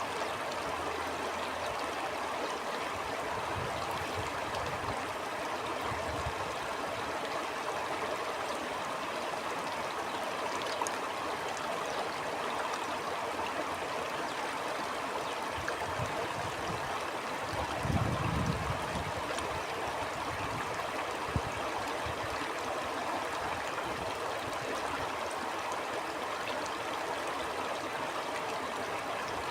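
Stream of water flowing steadily, with a continuous rushing and gurgling. Low rumbles of wind come and go under it, the strongest about 18 seconds in.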